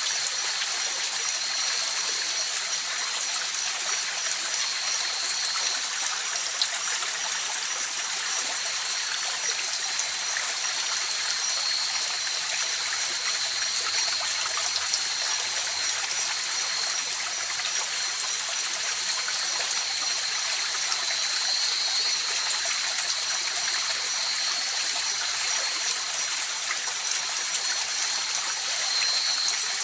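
River water running steadily, a constant mostly high-pitched hiss and trickle with almost no low rumble. Two thin, steady high tones run over it the whole time, one swelling slightly now and then.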